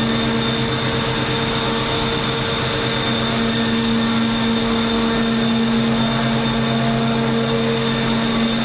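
Daikin water-cooled chiller running: a steady, loud machine hum with a constant high whine over it.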